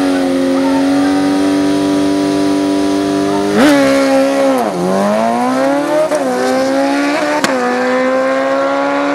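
A race vehicle's engine running at high, steady revs. About three and a half seconds in, the pitch drops sharply and climbs back over a couple of seconds, as it does when the engine takes load. It dips briefly again around six seconds in, as if on gear changes.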